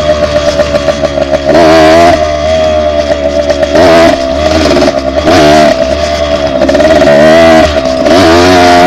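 Dirt bike engine running under way, surging up in pitch several times between steadier stretches as the throttle is worked.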